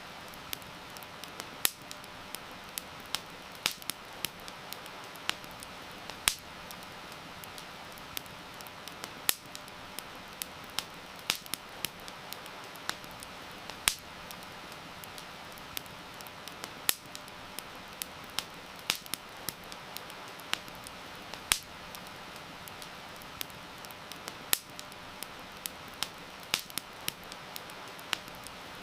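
Wood fire crackling, with sharp irregular pops and snaps several times a second over a steady hiss of rain.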